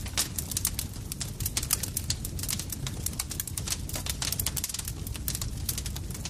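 Campfire crackling steadily, with many sharp pops and snaps over a low rumble of burning wood.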